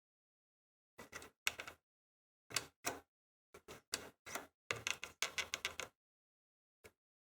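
Irregular clicks and light metallic clatters from parts of a disassembled toaster being handled, in short clusters with dead silence between them and a last single click near the end.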